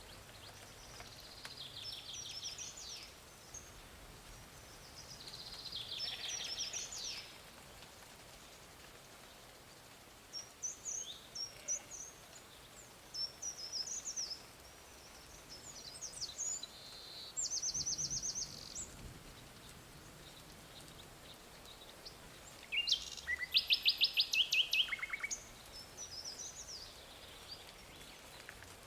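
Songbirds singing outdoors: short, high, trilled phrases and scattered chirps repeat every few seconds, with the loudest rapid trill a little past two-thirds of the way through. A steady faint hiss runs underneath.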